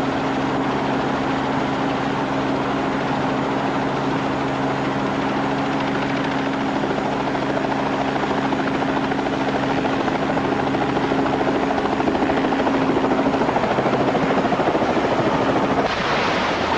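Helicopter running with a loud, steady rotor and engine noise and a steady low hum. The hum fades out near the end and the noise changes character.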